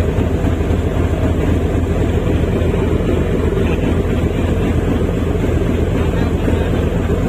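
Steady low drone of a roll-on/roll-off ferry's engines, heard on board at an even level.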